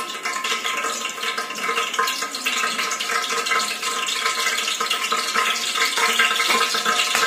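Mustard seeds and cumin sizzling and crackling steadily in hot oil, the tempering stage where the oil is hot enough for the seeds to splutter.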